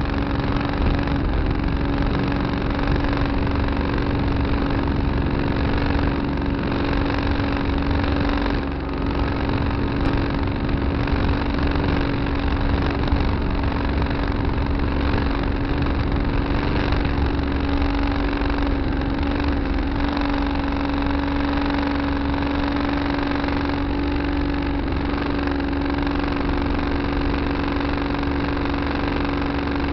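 Tractor engine running steadily, a constant hum with a strong steady drone, easing briefly about eight seconds in.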